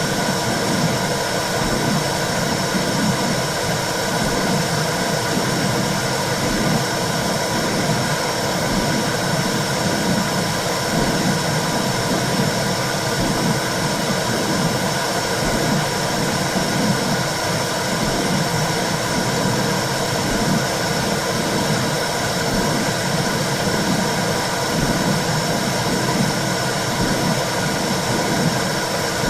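Womb-sound recording for soothing a baby: a steady whooshing hiss with a low, regular pulse about once a second.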